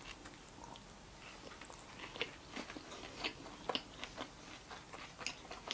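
Close, faint mouth sounds of someone biting into and chewing a Subway sub on soft seeded bread: scattered small wet clicks and crackles, coming more often from about two seconds in.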